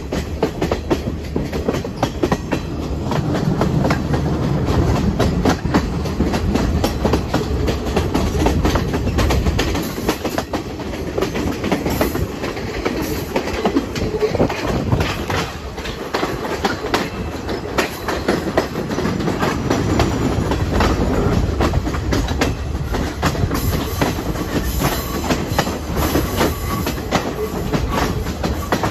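Passenger train running steadily, heard from aboard a carriage: a continuous rumble with the wheels clattering over the rail joints.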